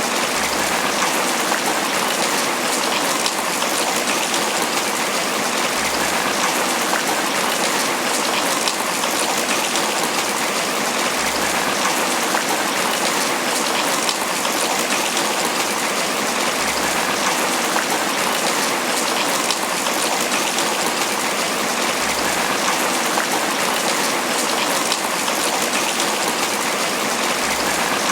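Steady tropical rain falling on banana leaves, an even patter of drops that neither builds nor eases.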